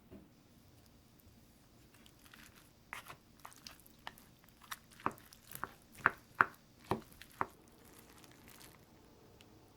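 Close-up eating sounds: a run of about a dozen sharp crunches and clicks, loudest near the end of the run.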